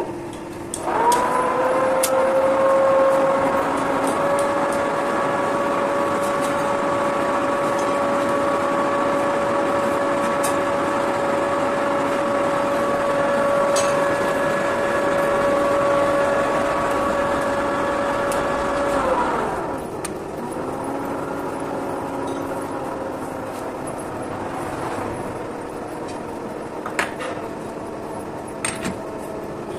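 A workshop machine's electric motor spins up with a rising whine, runs at a steady pitch for about eighteen seconds, then winds down as it is switched off. A lower hum carries on afterwards, with a few light metallic clicks near the end.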